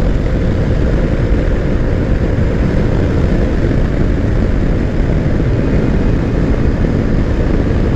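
Kawasaki Versys X300 parallel-twin engine running steadily at road speed, mixed with heavy wind rush on the microphone.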